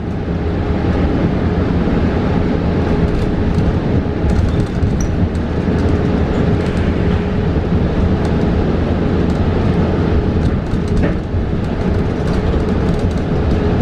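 Interior ride noise of a New Flyer XE40 battery-electric city bus in motion: a steady low road rumble with an even whine, and light rattles scattered throughout.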